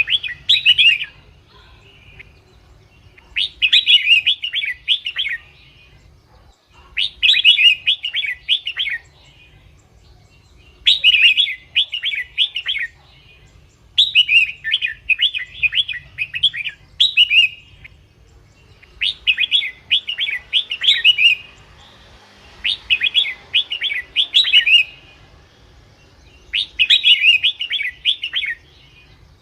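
Red-whiskered bulbul song, a short bubbly whistled phrase repeated about every three to four seconds. This is the kind of song played back to lure bulbuls or to get caged males worked up.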